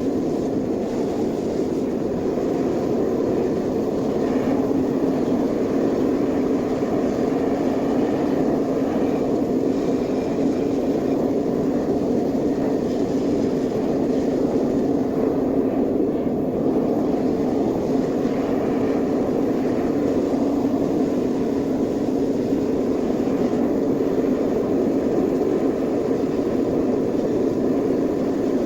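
Metal-smelting furnace running steadily during an aluminium melt: a loud, even rushing noise with no breaks.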